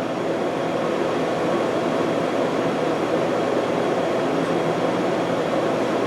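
Steady droning background noise with a faint even hum, unchanging throughout.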